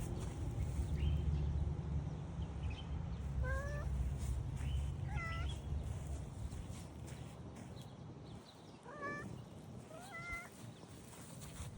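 A cat meowing: a series of short, high meows, the clearest near the middle and near the end, over a low rumble that fades out partway through.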